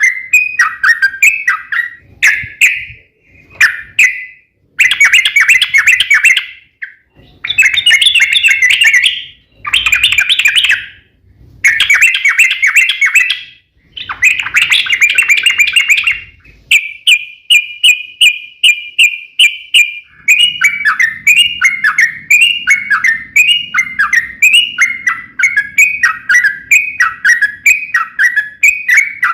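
Yellow-vented bulbul (trucuk) singing loudly: several bursts of fast, chattering song, a quick even trill about two-thirds of the way through, then a long run of repeated down-slurred whistled notes, about two a second.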